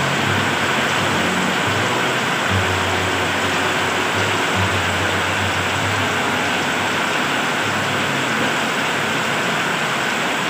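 Heavy rain pouring down in a steady hiss, with a low engine hum coming and going as a motorcycle rides through the flooded road.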